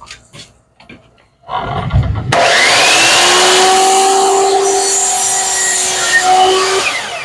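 A few knocks of wood being handled, then an electric power saw switches on with a rising whine and runs loudly for about four and a half seconds while cutting a wooden board. Near the end it is switched off and starts to spin down.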